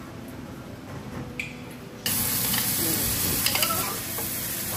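Light kitchen clinks, then about two seconds in a sudden loud, steady sizzling of minced ginger and diced red onion frying in a hot pan, with a few sharp ticks of a metal bench scraper against the pan.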